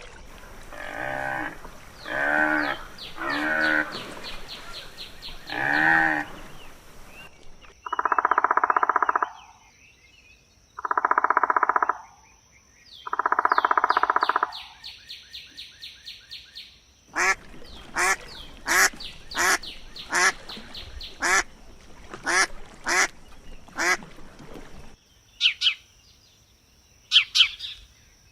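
Farm animals calling in a run of edited clips: about four pitched calls, then three long buzzy calls, then a fast string of short repeated calls, with a few high chirps near the end.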